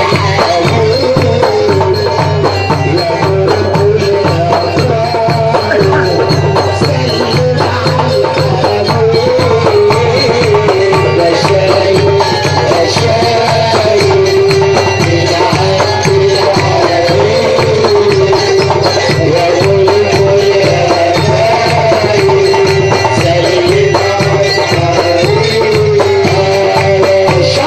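Live Port Said simsimiyya folk music with no singing: a wavering melody over a steady, evenly repeating drum beat with tambourine-like jingles.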